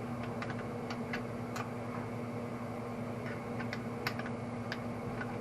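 Light, irregular metal clicks and ticks as a piston ring compressor is handled around the piston, over a steady low hum.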